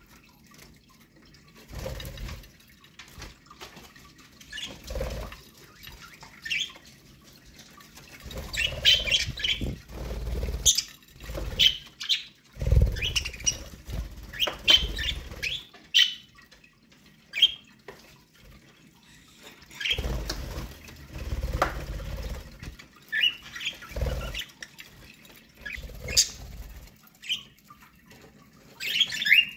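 Pet budgerigars chirping in short, scattered calls, with bursts of wing flapping and rustling every few seconds.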